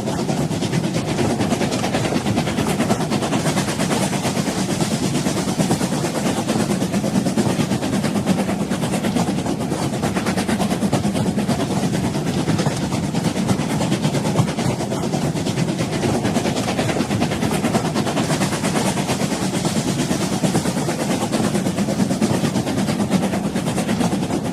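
Train running steadily on the rails, a continuous noise that holds at an even level throughout.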